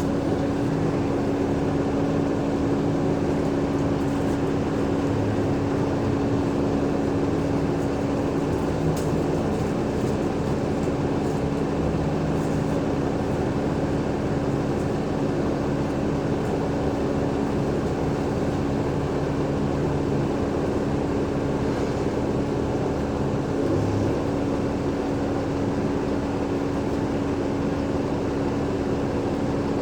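Onboard sound of an Alexander Dennis Enviro500 MMC double-decker bus under way, its Cummins ISL8.9 diesel and ZF Ecolife automatic gearbox running at a steady pace. A steady hum is held under the engine rumble.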